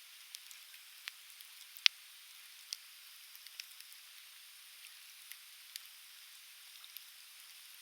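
Conifer firewood crackling in a bonfire: sharp pops at irregular intervals, the loudest about two seconds in, over a steady hiss.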